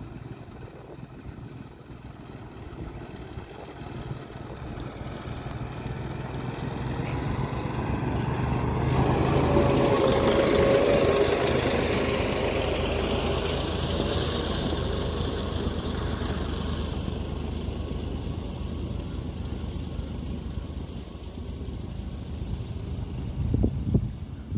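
A passenger train running past on the line: a steady rumble of wheels on rails with a low drone underneath. It swells to its loudest around the middle and then eases off as the train draws away, with a few sharp bumps near the end.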